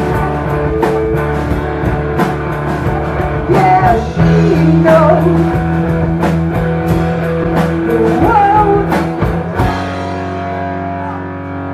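Rock band playing live: drums keep a steady beat under bass and guitar, with bending lead lines over the top. About two seconds before the end the drums stop and a held chord rings out.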